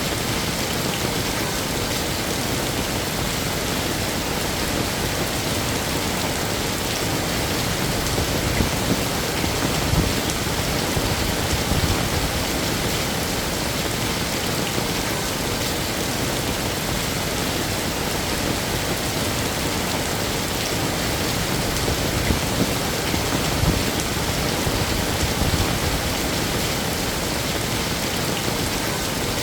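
Heavy rain falling steadily, a dense even hiss of drops on hard surfaces, with a few slightly louder splashes here and there.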